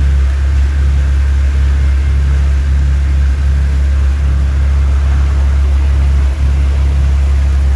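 Cruise boat's engine running steadily under way, a loud, even low drone.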